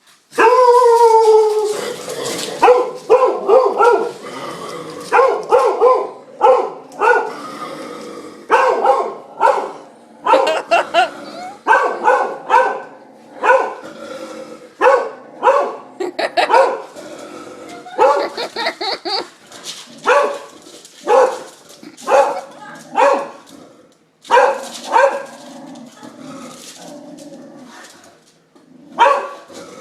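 A dog barking over and over, opening with one long drawn-out howling bark and then going on in short barks, one or two a second with brief pauses.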